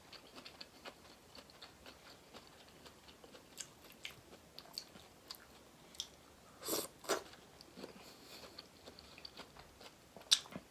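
Close-miked chewing of a king prawn in butter sauce: soft, wet mouth clicks and smacks throughout, with two louder wet bites about two-thirds of the way through.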